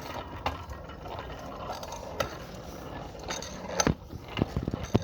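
Bicycle in motion, rattling and clicking, with a cluster of sharp knocks near the end over a low steady rumble.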